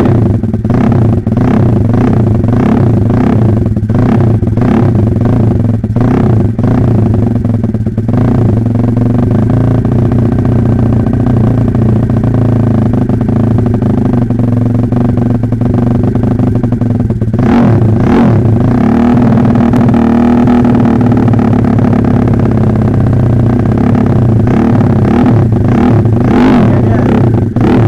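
Modified Xtreme Pit Pro pit bike engine, a small four-stroke single with a racing cam, big bore kit and FMF Powercore 4 exhaust, being ridden with the revs rising and falling on the throttle. About two-thirds of the way through, the revs drop briefly and then climb again.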